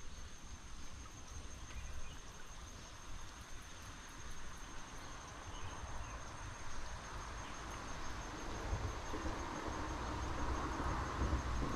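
Insects trilling steadily at one high pitch, over outdoor background noise, with a low rustling that grows louder over the last few seconds.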